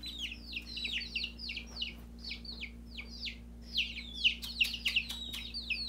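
Baby chicks peeping: a continuous stream of short, high cheeps, each falling in pitch, several a second.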